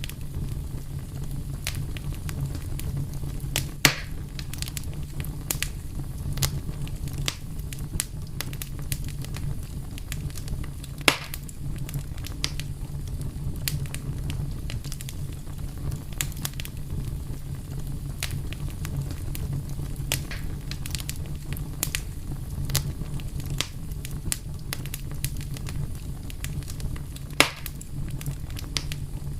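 Wood fire burning, a steady low rumble under a constant scatter of small crackles, with three louder pops.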